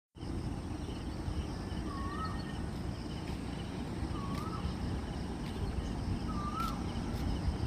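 A bird repeating one short, wavering whistled note three times, about two seconds apart, over a steady low background rumble.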